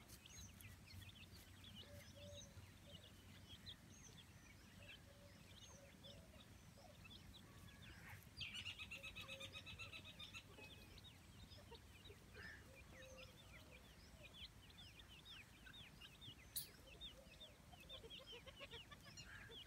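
Faint bird calls: many short high chirps throughout, with a few soft lower notes. About eight seconds in comes a rapid rattling run of calls lasting about two seconds. There is a single sharp click near the end.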